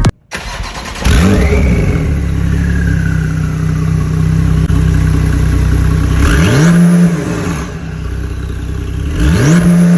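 Porsche 992 Targa's twin-turbo flat-six with an aftermarket exhaust and headers starting up and settling into a steady idle, then revved twice, about six seconds in and again near the end.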